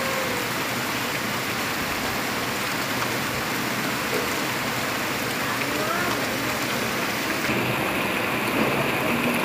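Heavy rain pouring steadily onto trees and broad banana leaves: a dense, even hiss of falling water. Near the end the hiss becomes a little duller.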